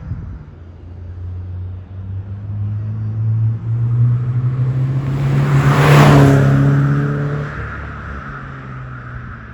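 Toyota GR86 / Subaru BRZ with a COLBASSO Ti-R Plus single-exit aftermarket exhaust, its 2.4-litre flat-four driving past. The exhaust note climbs as the car approaches, is loudest about six seconds in, then fades away.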